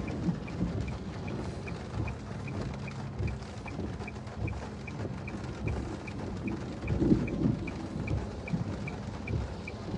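A short, high electronic beep repeating steadily about two and a half times a second, over a low, uneven rumble.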